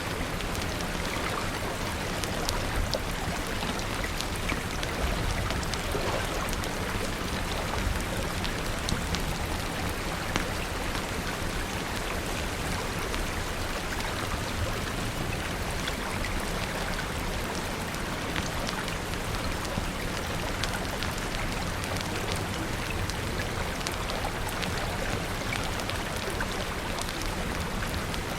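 Steady rain, with scattered sharp crackles from a wood fire.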